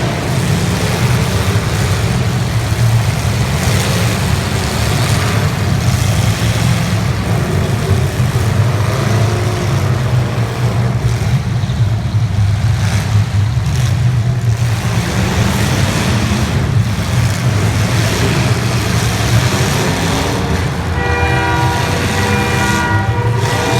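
Engines of 1980s stock demolition derby cars running and revving together in a constant loud rumble. About 21 seconds in, a horn sounds a steady chord of several notes for a few seconds.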